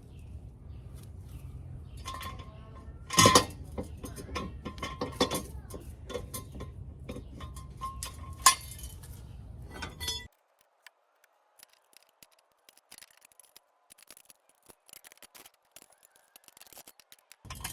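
Metal tools and car parts clinking and clanking as they are handled, with two louder metallic knocks, then after about ten seconds only faint, scattered clicks.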